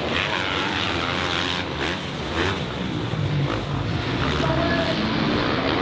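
Motocross bike engines revving hard during a race, the pitch rising and falling as the throttle opens and closes.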